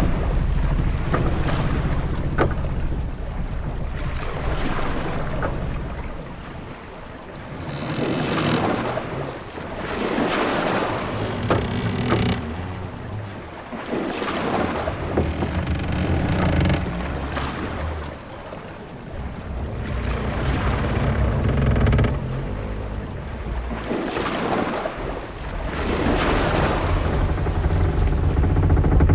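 Sailing ship at sea: waves surging and washing past the hull in swells every few seconds, with wind and a low rumble underneath.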